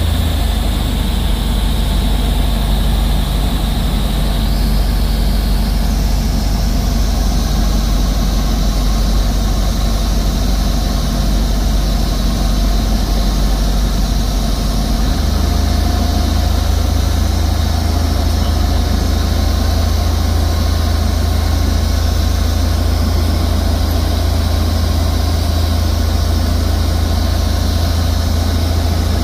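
Cessna 172's piston engine and propeller droning steadily, heard inside the cabin with air noise. The low note of the drone changes about halfway through.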